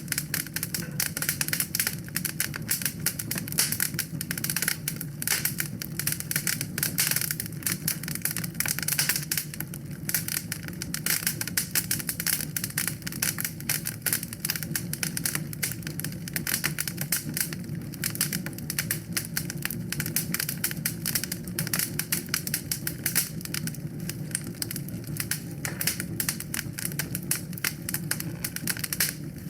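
Wood fire burning in a fireplace, crackling with a dense, irregular stream of small pops and snaps over a steady low rumble of the flames.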